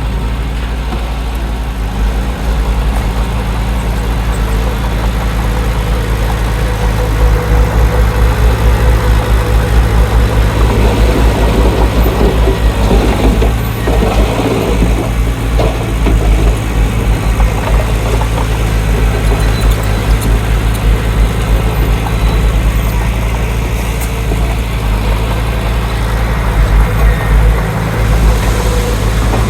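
Heavy earthmoving machine's diesel engine running steadily, getting louder from about seven seconds in, with its pitch rising and falling for a few seconds in the middle as it works under load.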